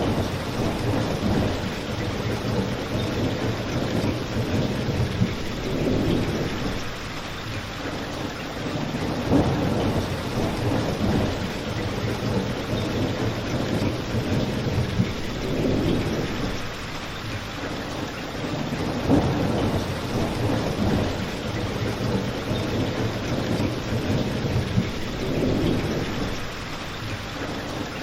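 Steady rain, with a low rumble that swells and fades every few seconds and a few sharp pops from a crackling fireplace.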